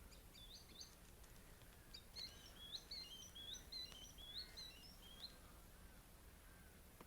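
Faint song of a small songbird: a brief high phrase just after the start, then a run of quick, repeated high notes from about two seconds in to just past five.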